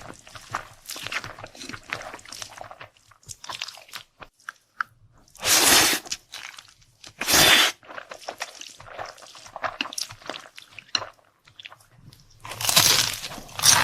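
Close-miked mouth sounds of eating: irregular chewing and crunching of food. Three louder, longer rushes of noise stand out, a little over halfway in and near the end.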